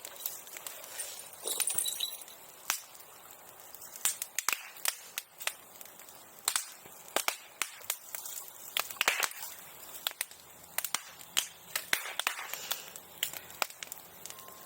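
Bonfire crackling, with frequent irregular sharp pops.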